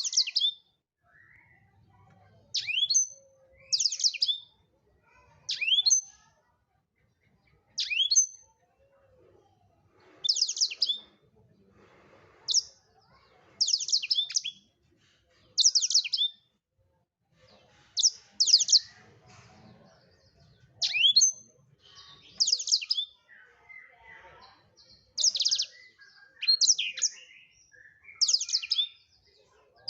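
Black-throated canary (blackthroat) singing vigorously: short, high, trilled phrases with quick downward sweeps, repeated every second or two.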